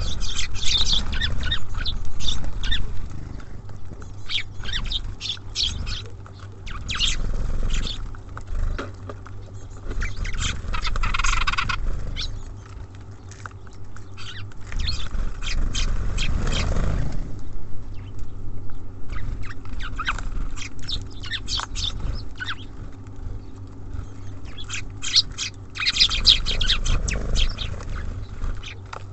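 Small birds at a seed feeder: rapid sharp pecking and tapping clicks, densest at the start and near the end, with a short chirping call partway through.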